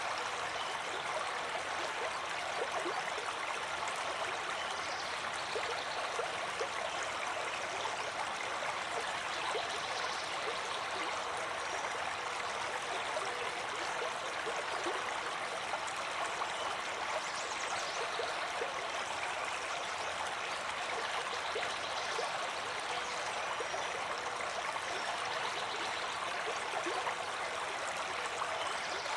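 Flowing water running steadily and evenly.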